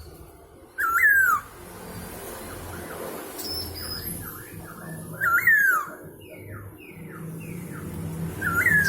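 A poksay hongkong laughingthrush calling loudly: three ringing notes, each rising briefly and then sweeping down. They come about a second in, around five seconds in and near the end, with a string of softer, shorter falling notes in between.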